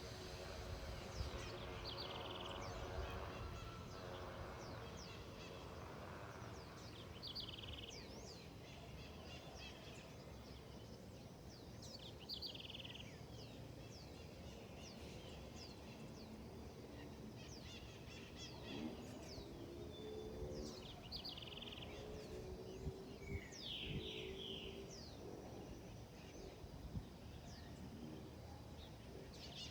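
Several birds chirping and calling, with many short, quick falling chirps throughout. A lower, drawn-out call stands out a few times about two-thirds of the way through.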